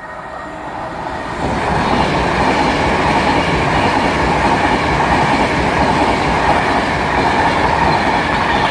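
Class 390 Pendolino electric train passing through the station close by, its wheels and running gear on the rails. The sound builds over the first second and a half, then stays loud and steady.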